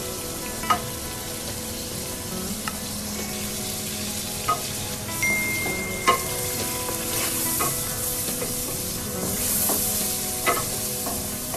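Chicken in spiced yogurt sizzling in a metal karahi as a wooden spatula stirs it, with about half a dozen sharp knocks of the spatula against the pan.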